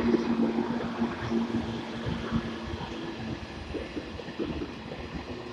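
A JR 185 series electric train passing, its wheels knocking over the rail joints with a steady hum that stops about three seconds in, the sound easing off as the train moves away.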